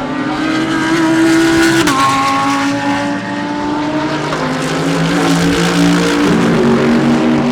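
GT3 race car engines at racing speed, more than one car at once, their notes rising and falling in pitch. The strongest note drops sharply about two seconds in, and other engine notes come in and change pitch later.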